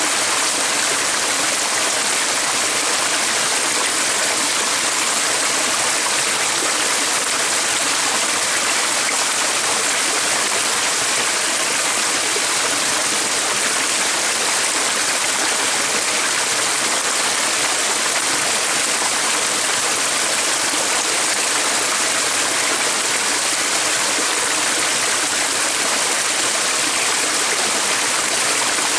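Running water, like a stream, flowing steadily: an even, hissing wash with no breaks or changes.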